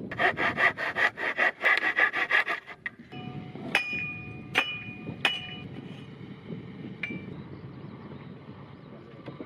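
A hand tool working wood with fast, repeated rasping strokes for about three seconds, then three ringing metallic clinks over a steady low noise.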